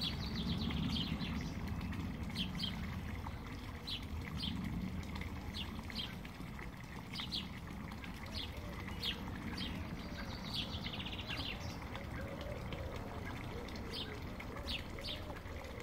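Small birds chirping: short high chirps repeating every second or so, with a couple of brief trills, over a steady low outdoor rumble.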